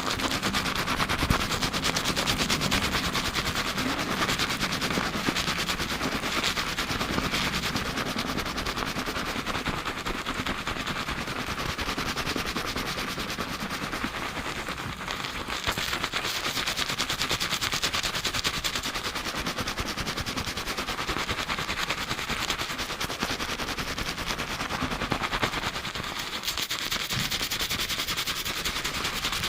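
Fingers scrubbing a lathered scalp and hair at high speed, a fast, continuous crackling of foam.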